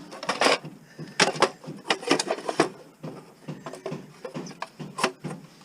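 Irregular metal clanks and knocks from the heavy steel case of an HID light fixture and its parts being handled as the fixture is taken apart. The knocks come several in quick succession, with a loud one about five seconds in.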